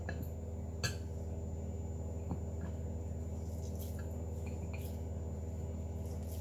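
Steady low background hum with a few light clicks and taps of kitchen utensils and dough being handled.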